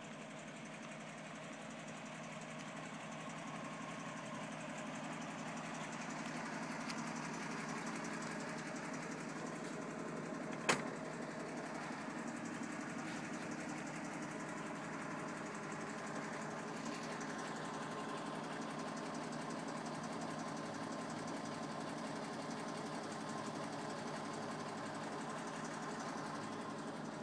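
The 1962 Toyota FJ40 Land Cruiser's 3.9-litre F-series straight-six running steadily, growing a little louder over the first few seconds. About eleven seconds in there is a single sharp click.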